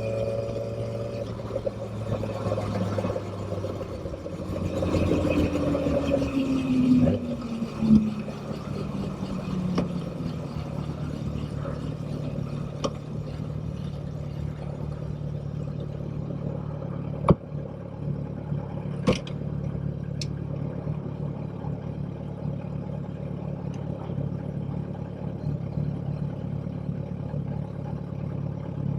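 Motorcycle engine easing off, its pitch falling over a few seconds, then running steadily at low revs. A few sharp clicks come around the middle.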